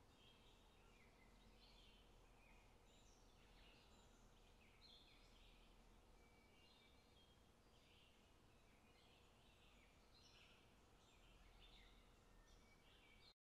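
Faint birds chirping over a steady low hiss, many short calls in quick succession; it all cuts off suddenly near the end.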